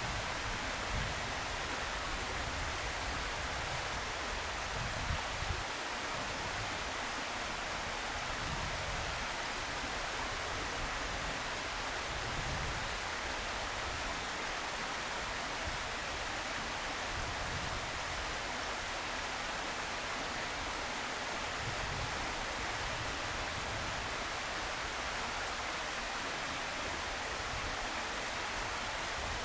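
Steady outdoor hiss with irregular low gusts of wind buffeting the microphone.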